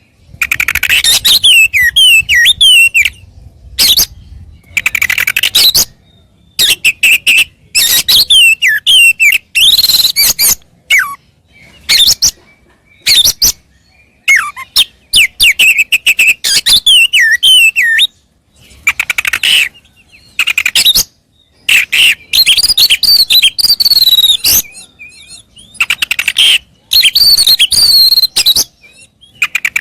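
Oriental magpie-robin (kacer) singing loud, varied phrases of whistled sliding notes and rapid trills. The phrases come in bursts of a second or two, separated by short pauses.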